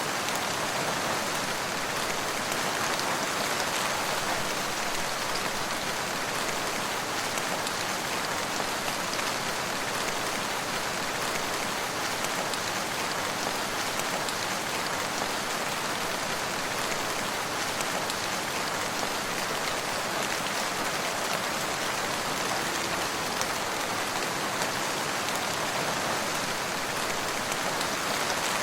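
Steady rain falling and pattering on surfaces, an even, unbroken hiss with fine drop ticks throughout.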